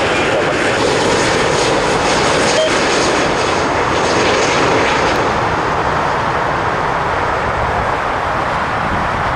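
Jet airliner's engines at takeoff power: a loud, steady rush of noise that eases slightly near the end.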